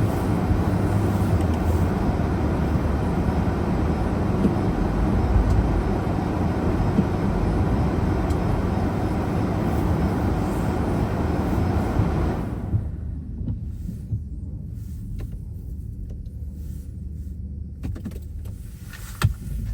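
Car tyre and road noise heard inside the cabin while driving on a snowy road, a steady rushing that fades out about two-thirds of the way in as the car slows. What remains is the low hum of the engine, with a few clicks and two knocks near the end.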